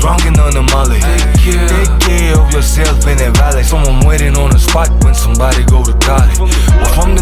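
Hip-hop track played loud over a car audio system, with a constant heavy sub-bass and punchy kick drums that drop in pitch, about two a second.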